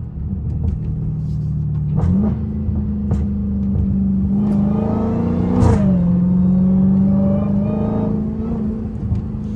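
Supercharged 6.2-litre Hemi V8 of a straight-piped Dodge Challenger Hellcat Redeye running on the move. Its pitch rises about two seconds in, climbs again to a peak near six seconds and then drops, with several sharp exhaust pops along the way.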